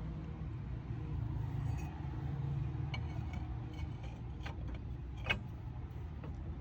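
Car on the move: a steady low rumble of engine and tyres, with a few sharp clicks in the second half, the loudest a little past five seconds in.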